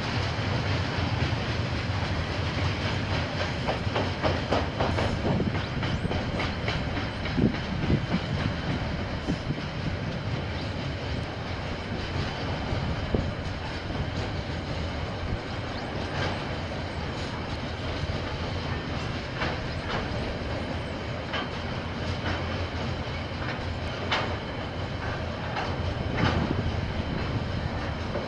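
KiwiRail train rolling past, a steady rumble of wagons with wheels clicking irregularly over the rail joints.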